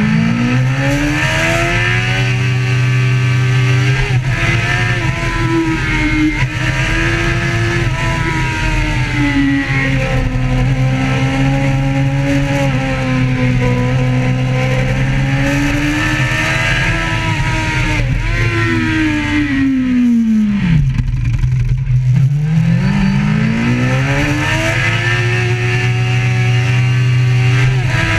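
Motorcycle engine being ridden hard, its pitch rising and falling as it speeds up and eases off. About twenty seconds in the revs drop away sharply, then climb steadily again.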